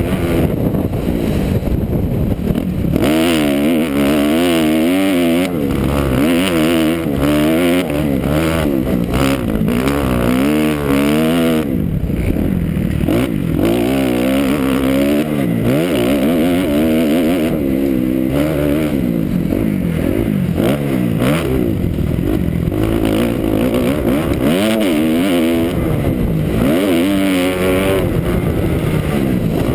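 2009 Kawasaki KX250F's four-stroke single-cylinder motocross engine being ridden hard. The engine note rises and falls over and over as the rider accelerates, shifts and backs off.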